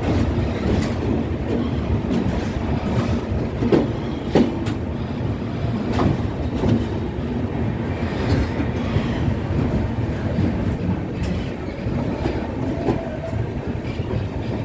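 Passenger train rolling on steady rumble, its wheels clacking and knocking over rail joints at irregular intervals.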